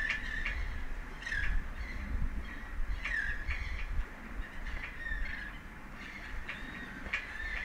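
Birds calling, a string of short repeated calls, about one or two a second, many dipping in pitch, over a steady low rumble.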